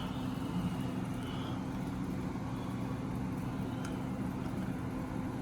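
Window air conditioner running: a steady low hum with a constant drone.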